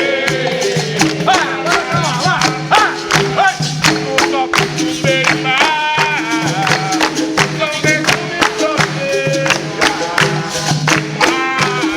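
Capoeira music: a voice sings over a berimbau switching between two notes and a pandeiro keeping a steady beat of jingling strikes.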